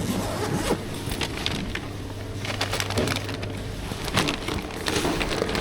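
Irregular rustling, crinkling and small knocks of things being handled, over a steady low hum.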